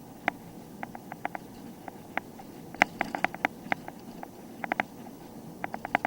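A series of short, sharp clicks at irregular spacing, some single and some in quick runs of three to five, with the busiest run about three seconds in.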